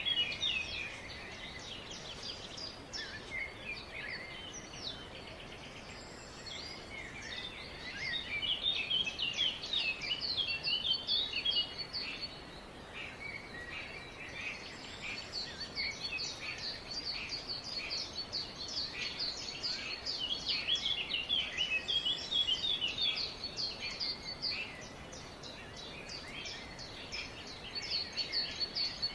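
Several songbirds chirping and trilling at once, in busy spells with quieter gaps, over a faint background hiss.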